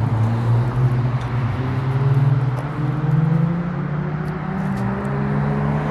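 Engine drone: a steady low hum whose pitch drifts slightly and shifts once, about two-thirds of the way through.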